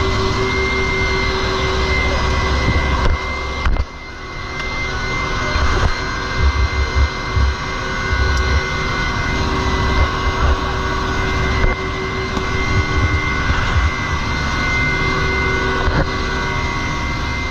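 Helicopter running: a steady turbine whine over heavy low rotor noise, dipping briefly about four seconds in.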